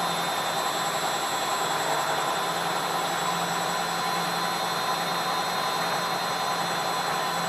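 ELIN A 100 E washing machine running: a steady, even mechanical whirr with a thin high whine over it.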